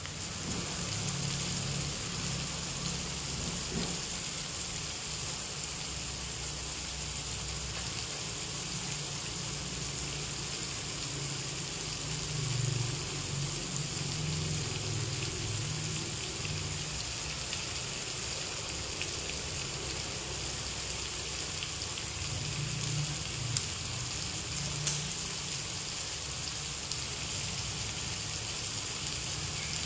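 Chicken fillets frying in butter in a cast-iron skillet: a steady crackling sizzle, with a couple of sharper clicks about three-quarters of the way through.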